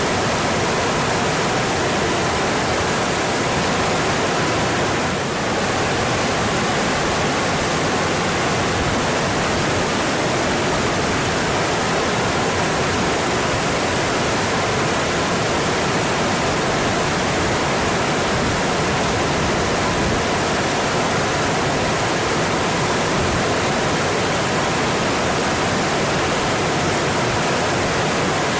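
Mountain stream: water rushing in a steady, even stream of noise.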